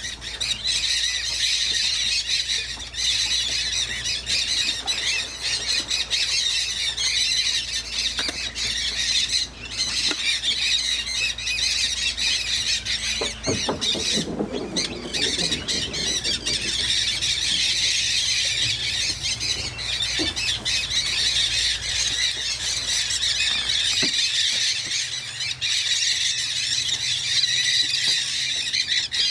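A large flock of mealy amazon parrots calling all at once: a dense, unbroken chorus of shrill squawks and screeches.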